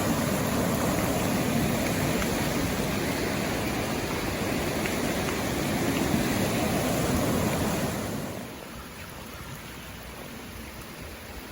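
Steady rush of flowing water, dropping to a quieter level about eight seconds in.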